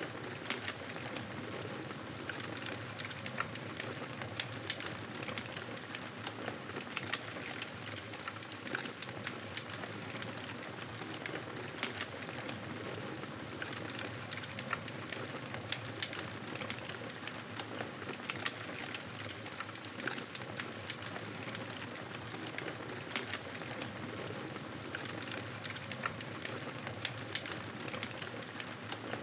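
Campfire burning: a steady hiss of crackling with frequent sharp pops at irregular intervals.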